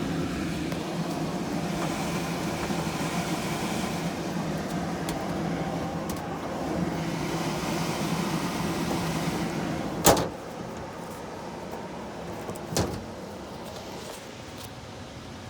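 A water source heat pump's blower fan running steadily, with the compressor not yet on. About ten seconds in there is one sharp bang, after which the fan sounds quieter, and a lighter knock follows a few seconds later.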